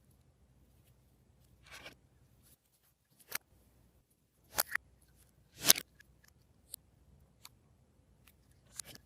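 Glossy slime being worked by hand, giving scattered crisp sticky pops and clicks at irregular intervals, the loudest a little past halfway.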